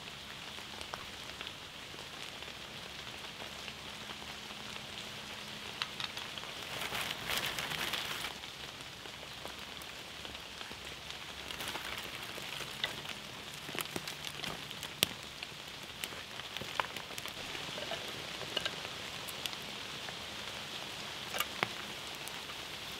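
Steady rain falling on woodland leaves and ground, an even hiss, with scattered sharp clicks and snaps from a small kindling fire and twigs being laid on. The hiss briefly grows louder about seven seconds in.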